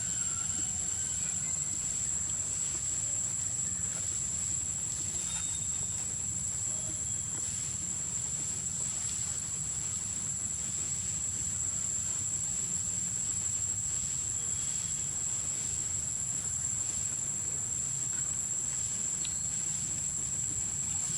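Steady, high-pitched insect drone, unbroken throughout, over a low rumble, with a few faint short chirps.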